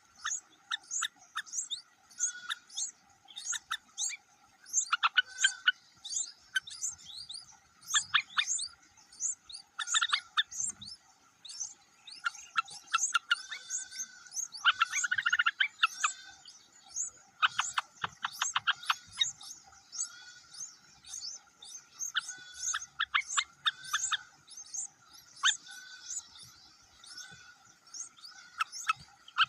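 Small birds chirping, a steady run of short, high chirps with several denser, louder flurries of calls.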